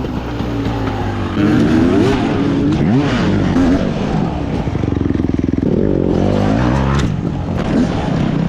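Dirt bike engine revving up and down as it is ridden off-road, its pitch rising and falling over and over, with a sharp knock about seven seconds in.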